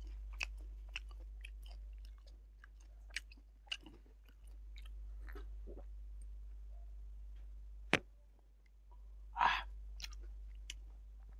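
Close-up chewing and wet mouth clicks of someone eating tengra fish by hand, with a single sharp knock about eight seconds in and a brief breathy burst just after it. A low steady hum runs underneath.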